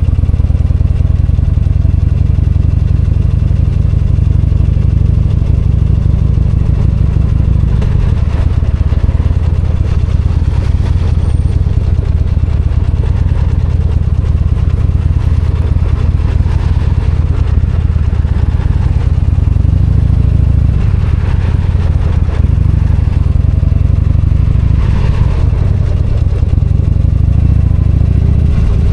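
V-twin motorcycle engine running steadily under way, its low note shifting a few times as the revs change.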